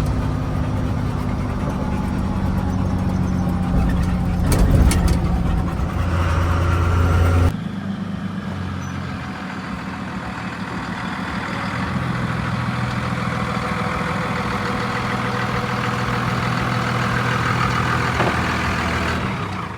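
Truck engine and road noise heard from inside the cab while driving, a steady drone with a brief clatter about five seconds in. About seven seconds in the deep low drone cuts off abruptly and a lighter engine drone carries on.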